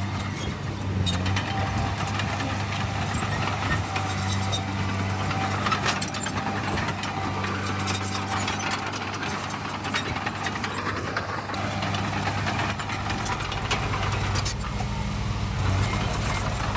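Heavy diesel earthmoving machinery running steadily, a constant low engine hum with scattered clicks and clanks.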